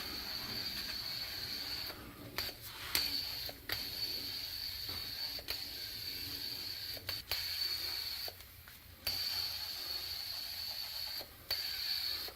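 A small motor running with a high whine and hiss, stopping briefly several times, with scattered clicks.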